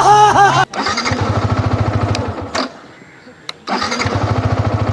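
Motorcycle electric starter cranking the engine in two tries, a second or so each, with fast even pulses and a pause between. The engine does not catch: the bike won't start.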